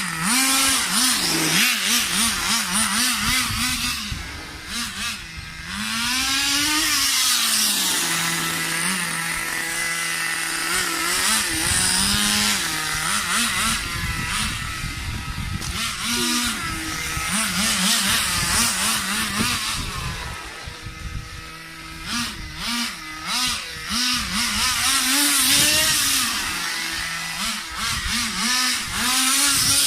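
Small nitro engine of an RC buggy, a Thunder Tiger 15 Pro, being driven: it drops back to a steady idle for a few seconds at a time, then revs up and down in quick repeated bursts as the throttle is worked.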